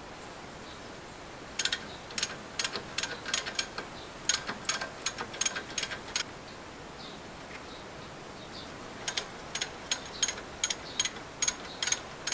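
Hand ratchet wrench clicking in two runs of quick strokes, about two to three sharp clicks a second, with a pause of a few seconds between the runs.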